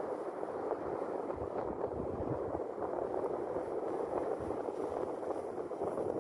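Sea waves washing steadily against the shore, with wind buffeting the microphone in low gusts.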